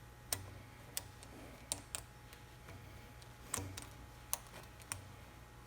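About six light, scattered clicks and taps from hand tools and small metal parts being handled during assembly, over a faint low steady hum.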